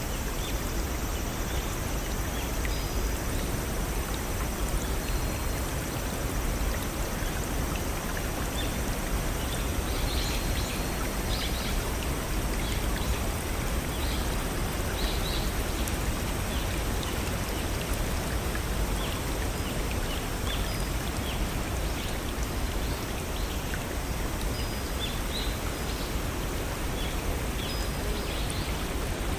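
Steady rush of a small waterfall and brook flowing over rocks, with scattered short high bird chirps throughout.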